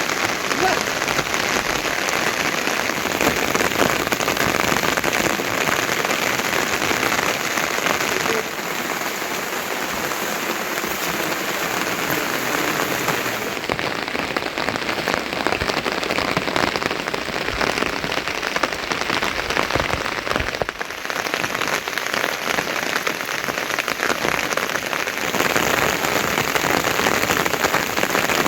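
Heavy monsoon rain falling steadily, a dense hiss of drops, its tone and loudness shifting a few times.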